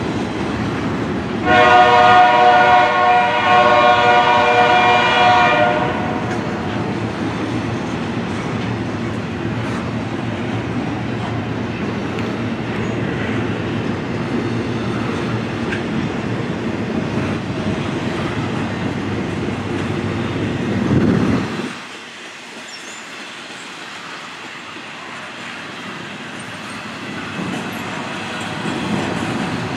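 Double-stack intermodal freight train rolling past, with a locomotive air horn sounding one long chord about a second and a half in and lasting about four seconds. About two-thirds of the way through, the low rumble drops away abruptly and the container cars pass more quietly, growing slightly louder near the end.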